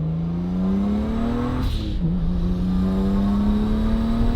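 Single-turbo BMW N54 inline-six pulling hard under full throttle. Its engine note rises steadily, drops at an upshift about a second and a half in, then climbs again in the next gear.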